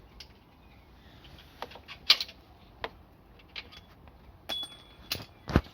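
Irregular clicks and knocks of metal tools and parts being handled, the sharpest about two seconds in and just before the end.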